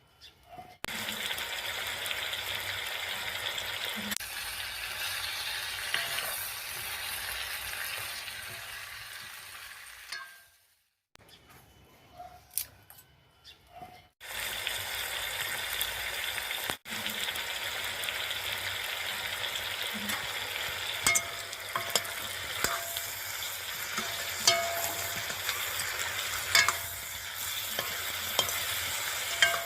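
Chicken sizzling as it fries in hot oil in a cooking pot: a steady hiss with a short quieter break partway through. In the second half a spoon clinks and scrapes against the pot every second or two as the meat is stirred.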